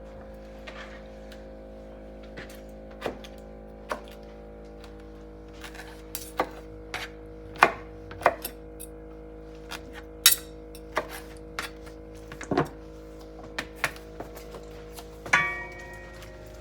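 Kitchen knife and utensils knocking on a cutting board and dishes while food is prepared: a dozen or so irregular taps and clunks, with a ringing clink near the end. A steady low hum runs underneath.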